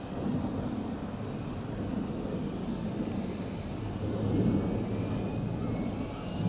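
Aerospatiale AS355F2 Ecureuil 2 twin-turboshaft helicopter running: a steady turbine whine whose high tones rise slowly in pitch, over a rotor and engine rumble.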